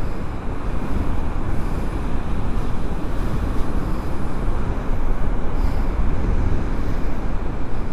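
Strong wind from the aftermath of a cyclone buffeting the microphone: a steady, heavy rumble that rises and falls with the gusts.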